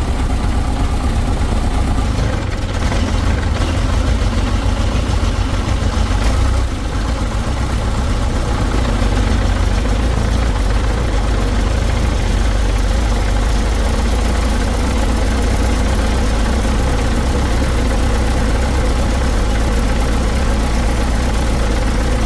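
Heavy engine idling steadily with a deep low hum, with the machine's hydraulic gasket freshly replaced.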